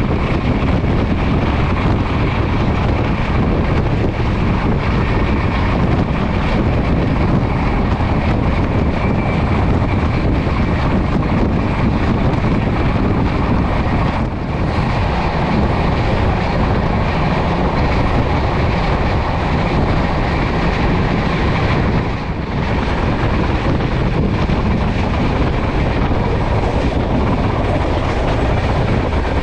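Passenger train running at speed: a steady rumble and clatter of wheels on the rails, dipping briefly twice.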